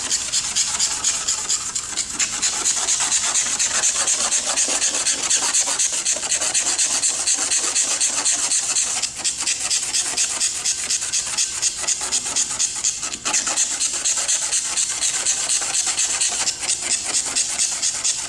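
Fast back-and-forth hand rubbing over a car's painted hood, a dry rasping scrape from polyurethane spray-foam overspray specks still stuck to the finish; paint already cleaned goes silent under the strokes. The rubbing breaks off briefly about nine and thirteen seconds in.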